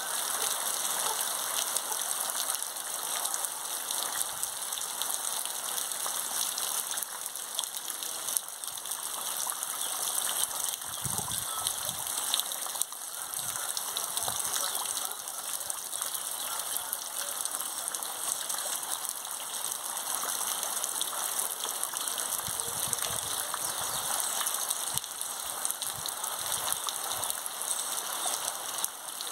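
Heavy rain pouring steadily on trees and waterlogged ground, a dense, even hiss.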